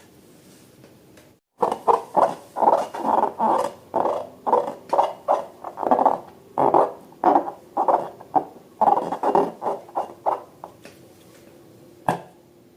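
Rubber balloon squeaking under handling: a quick run of short squeaks, two to three a second, that starts suddenly and stops near the end, followed by a single click.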